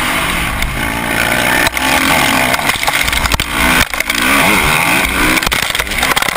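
Dirt bike engine revving up and down, with a few sharp knocks.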